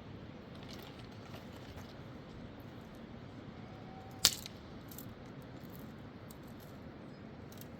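A steady hiss of background noise with one sharp click a little past halfway and a few faint small clicks.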